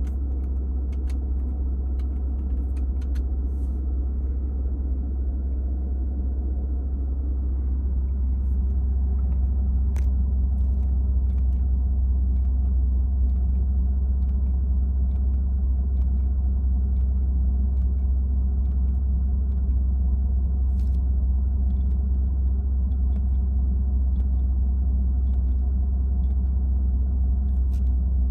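Mercedes-Benz M275 5.5-litre twin-turbo V12 of a 2006 SL600 idling steadily in Park, a deep, even rumble heard from inside the cabin. It gets slightly louder about a third of the way in.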